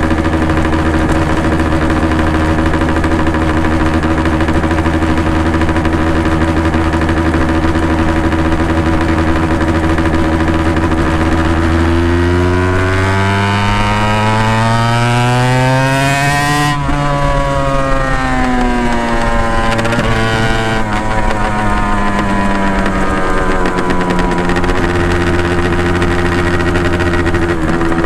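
Honda NSR250R MC21's two-stroke V-twin with Dog Fight Racing expansion chambers idling steadily. About halfway through it revs up over several seconds, then drops off sharply and falls back to idle.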